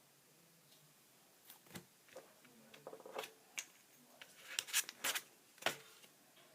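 Trading cards being handled close to the microphone: a run of sharp clicks and rustles starting about a second and a half in, the loudest near the end.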